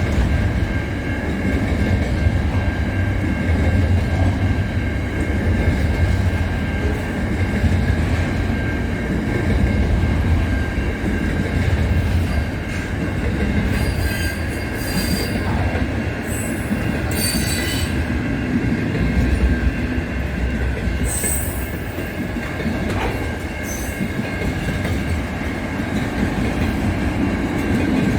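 Train running on rails: a steady low rumble with a constant high whine, and several brief high-pitched wheel squeals about halfway through.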